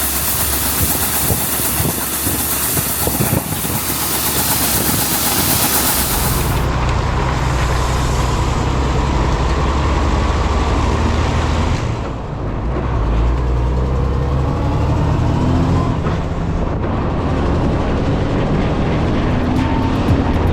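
Heavy vehicle engine running steadily under road and wind noise, its sound changing abruptly about six seconds in and again around twelve seconds in.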